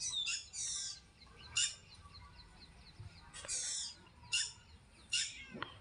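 Birds chirping: several bursts of short, high, falling chirps, with fainter quick chirps in between.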